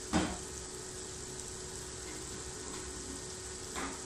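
Onion and spice masala frying in oil in a wok with a steady sizzle, with two brief scrapes of a wooden spatula, one just after the start and one near the end.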